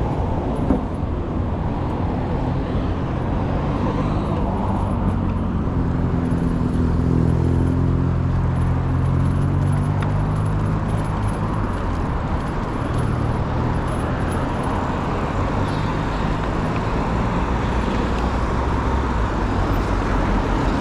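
Urban road traffic: a steady rush of car engines and tyre noise, with one vehicle's engine running louder and closer for several seconds around the middle.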